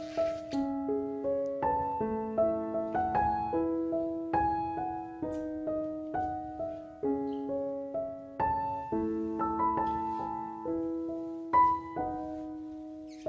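Background piano music: a slow, gentle melody of single notes fading out over held lower notes.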